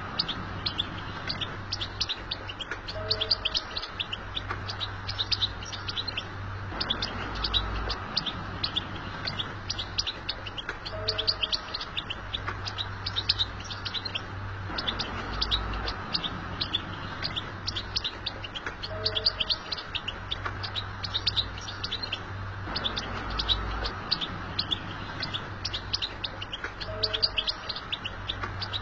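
European goldfinch singing its rapid twittering song, a dense, continuous stream of high chirps and trills. A soft, lower two-note sound comes back about every eight seconds, and the whole stretch repeats at that spacing, as in a looped recording.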